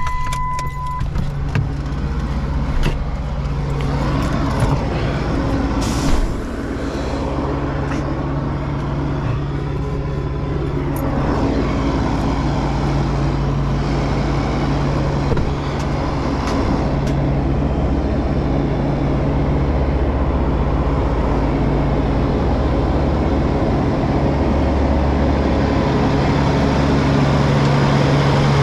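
Truck engine running steadily with road noise as the vehicle drives. A short electronic beep and a few clicks come in the first second.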